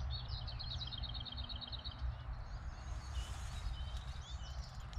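Songbirds singing: a rapid trill of evenly repeated high notes for the first two seconds, then scattered chirps and short whistles, over a steady low rumble.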